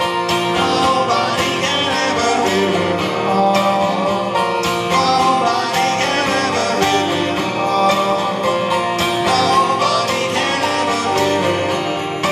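Live rock band playing: strummed guitars over a steady beat, with some singing.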